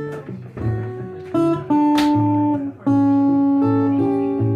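Guitar played fingerstyle in the thumbpicking style: an alternating thumb bass under a plucked melody, with notes ringing over the bass and a sharp strummed accent about two seconds in.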